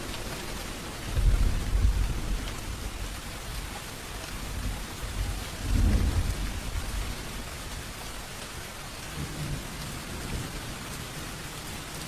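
Steady rain falling, with low rumbles of thunder swelling about a second in and again around the middle.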